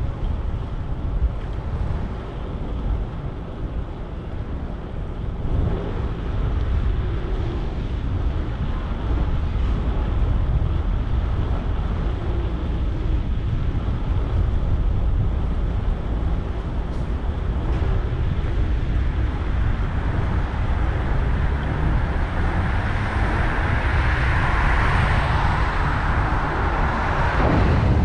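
Wind rushing over the microphone of a moving bicycle, heavy and low, with street traffic around it; a passing vehicle swells louder toward the end and fades.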